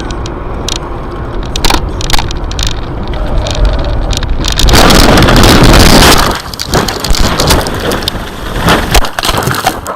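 Car and road noise with scattered sharp knocks. About five seconds in there is a loud, harsh rush of noise that lasts over a second.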